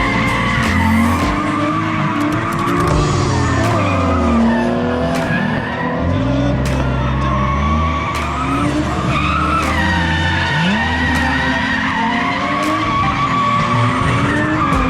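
Drift car engine revving up and down again and again, with tyres squealing as the car slides through corners.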